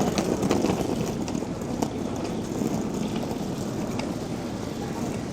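Busy street ambience: a steady low hubbub with scattered light clicks and taps.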